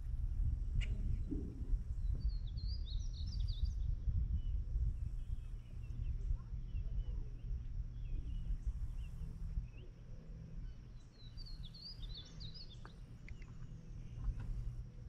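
Two short bursts of bird chirps, a few seconds in and again near the end, over a steady low rumble of outdoor background noise.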